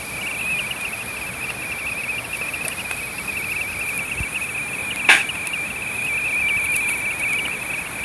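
A kettle on a wood fire whistling in one steady, slightly wavering high tone, over a hiss. Wood crackles now and then, with one loud pop about five seconds in.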